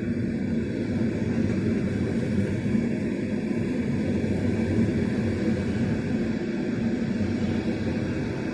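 Passenger train coaches rolling past at speed: a steady, heavy rumble of wheels on rail.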